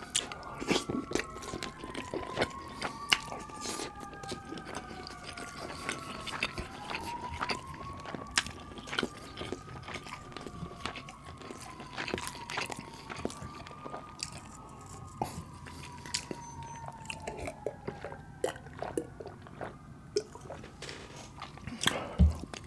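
Close-miked chewing and wet mouth clicks from eating butter chicken and rice. Behind them a siren wails, its pitch slowly rising and falling every few seconds, fading out near the end.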